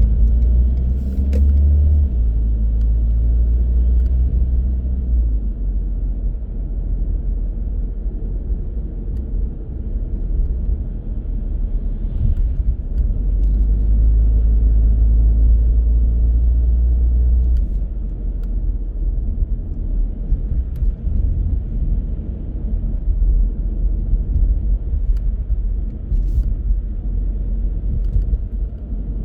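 A car driving, its engine and tyres making a steady low rumble that grows heavier for a few seconds about halfway through, with a few faint clicks.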